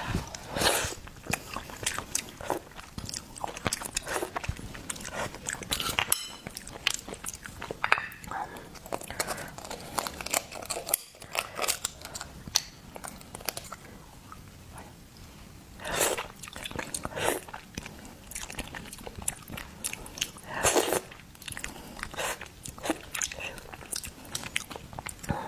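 Close-miked eating of seafood: a person biting and chewing, with irregular crunches and mouth clicks. The louder bites come about a second in, and again near 16 and 21 seconds.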